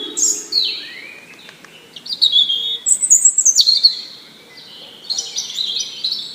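Songbirds singing in bursts of high, quick, warbling phrases that slide up and down, with short pauses between the phrases.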